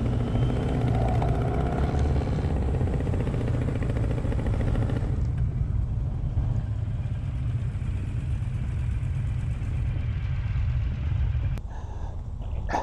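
Motorcycle engine running steadily at low speed. A click comes about eleven and a half seconds in, and the sound is a little quieter after it.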